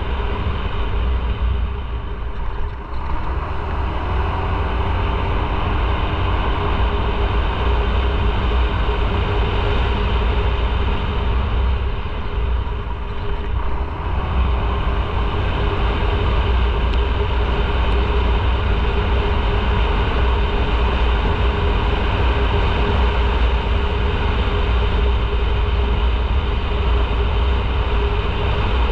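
Motorcycle on the move: a steady engine note with road noise and a heavy wind rumble on the microphone. It eases twice, briefly, about three seconds in and again near the middle.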